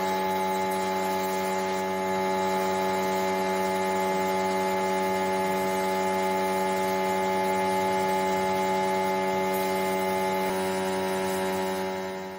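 Electric power tool motor running at a steady speed with a constant hum, fading out near the end.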